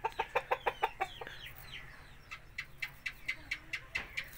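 Bird calls: a quick run of about seven short pitched notes, then a few falling notes, then a steady string of higher chirps at about five a second.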